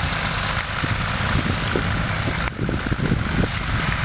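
Antique tractor engine running steadily, a low rumble with quick uneven thumps.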